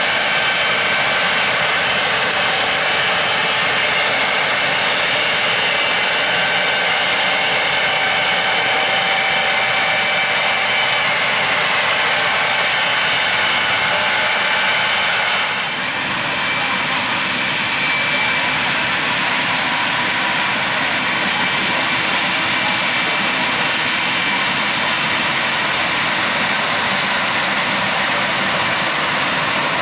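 Combines harvesting corn and tractors pulling grain carts running through the field: a loud, steady mix of heavy diesel engine and harvesting machinery noise with several high whining tones. The sound dips and changes character about halfway through.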